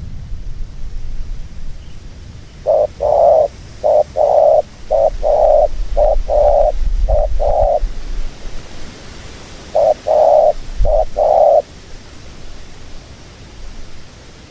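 Dove cooing: a series of paired coos, each a short note followed by a longer one, about five pairs in a row, then a pause and two more pairs. A low rumble runs underneath.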